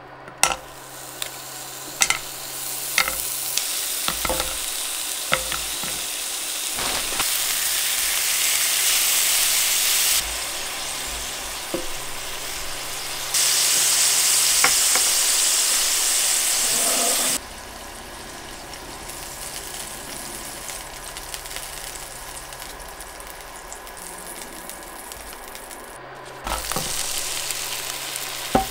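Sliced pork belly frying in its own fat in a frying pan, a steady sizzle with a few sharp ticks in the first few seconds. The sizzle steps up and down in loudness several times, and near the end sliced onions sizzle in the rendered fat.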